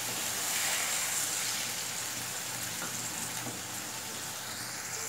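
Onions with garlic and cumin paste sizzling in a hot metal karai after a little water is added, a steady hiss that eases slightly over the seconds.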